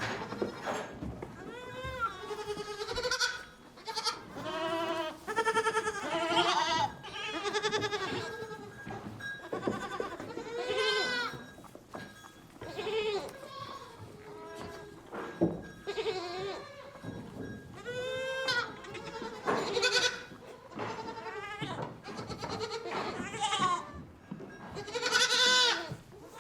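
Goats bleating, one wavering call after another, with short gaps between them.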